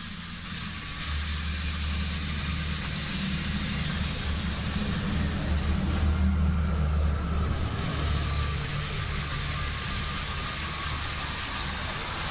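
Two small battery-powered TOMY toy trains running on their track, their electric motors whirring steadily with the rattle of wheels on the rails, a little louder around the middle.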